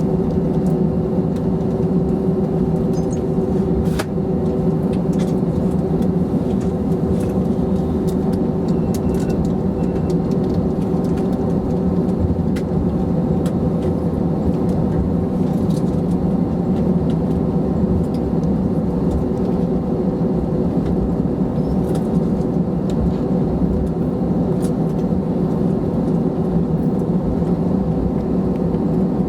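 Cabin noise of an Airbus A321-211, its CFM56-5B engines running steadily at low power, typical of taxiing before takeoff: an even hum with several steady tones and no spool-up. There is a light click about four seconds in.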